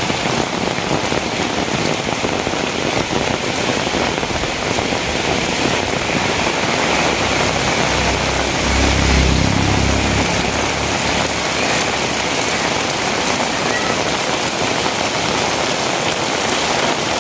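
Heavy rain falling steadily, with a low rumble that swells and fades about halfway through.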